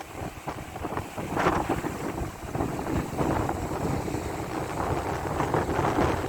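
Strong wind buffeting the microphone in uneven gusts, a rough rumbling noise that swells and eases every second or two.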